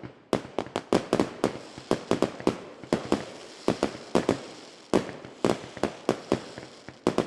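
A rapid, irregular series of sharp bangs and pops, several a second, each with a short echoing tail.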